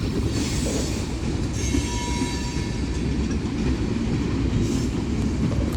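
Freight cars of a slow-moving BNSF mixed freight train rolling past: a steady rumble of steel wheels on rail, with faint high wheel squeal in the first couple of seconds.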